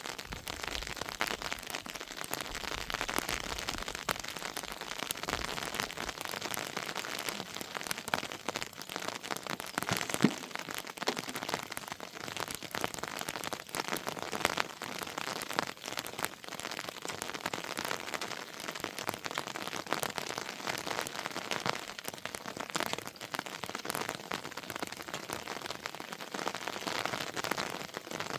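Heavy rain falling steadily, a dense patter of drops with many sharp individual hits, and one louder knock about ten seconds in.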